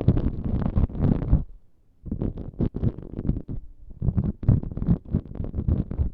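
ASMR props rubbed and scratched right against the microphone, a dense crackling rustle in three bursts of a second or two each.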